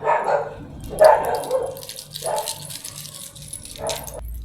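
A dog barking about four times in short, spaced barks, over a faint crackly hiss.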